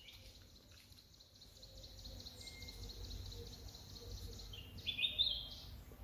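Outdoor ambience with birds calling: a fast run of short high chirps for most of the stretch, then a few louder stepped chirps about five seconds in, over a faint low rumble.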